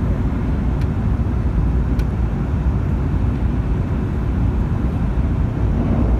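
Cabin running noise of a Joetsu Shinkansen train under way: a steady low rumble with no change in pitch or level, and two faint ticks about one and two seconds in.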